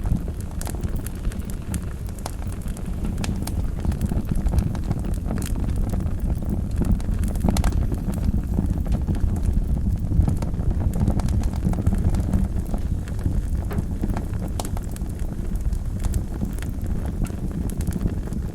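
Wood fire burning in a fireplace: a steady low rumble of the flames with frequent sharp crackles and pops scattered through it.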